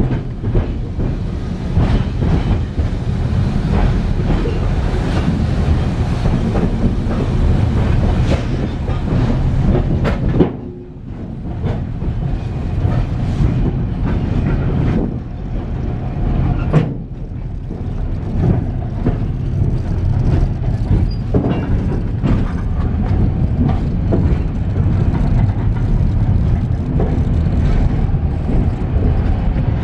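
Iron-ore freight train rolling, heard from aboard a freight car: a loud, steady rumble with wheels clattering and clanking over the track, briefly easing about ten seconds in.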